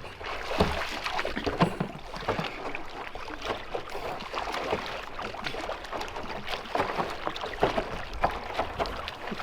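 Water splashing and sloshing irregularly around a small home-made boat in a lake, with scattered light splashes.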